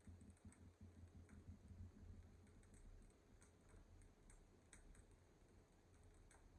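Wood fire crackling in a fireplace: faint, irregular snaps and pops.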